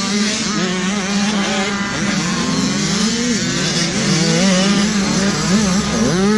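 Several motocross dirt bikes on the track at once, their engines revving up and dropping back as they shift gears, the pitches overlapping and rising and falling throughout.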